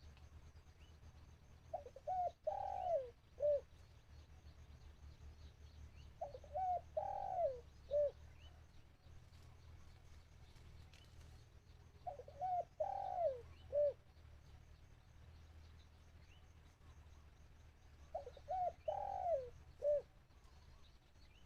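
A decoy spotted dove cooing its song, a short phrase of several cooing notes repeated four times about every five to six seconds, calling to draw in wild doves.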